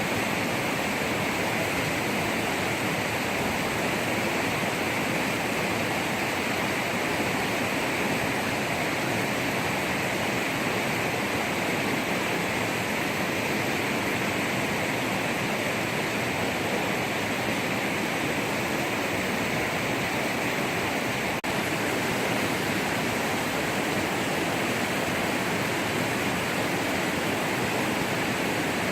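Steady rush of flowing water, an even hiss strongest in the upper mids, with a brief break about two-thirds of the way through.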